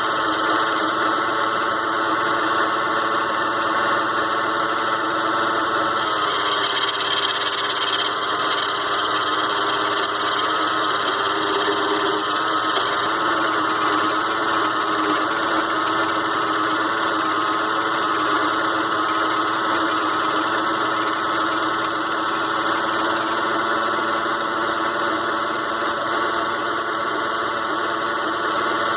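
Small 6-in-1 mini lathe with a DC motor running steadily while turning aluminium stock down to size. Its whine and gear noise change about six seconds in.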